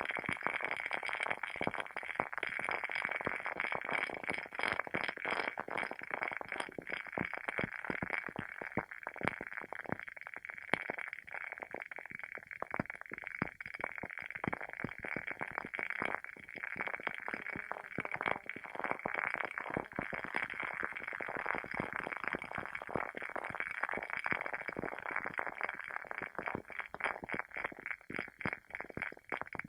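Wooden wick of a WoodWick candle burning with a steady, irregular crackle of many small pops over a soft hiss, like a tiny campfire.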